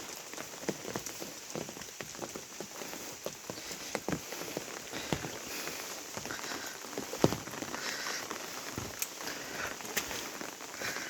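Monsoon rain falling: a steady hiss with irregular sharp taps of drops hitting a surface, one louder tap about seven seconds in.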